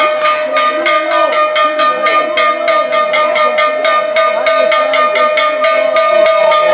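Cowbell beaten in a fast, even rhythm, about four or five strikes a second, over a steady held high tone.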